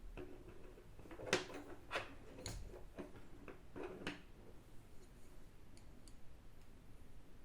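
A run of light clicks and taps from small objects being handled and set down, about a second to four seconds in, followed by a few faint ticks.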